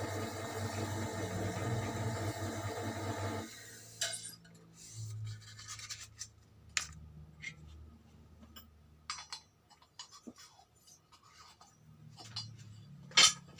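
An electric motor polishing the Mio M3 cylinder bore with sandpaper runs with a steady hum, then stops about three and a half seconds in. After that come scattered clicks, light metallic clinks and rubbing as the block is handled and wiped.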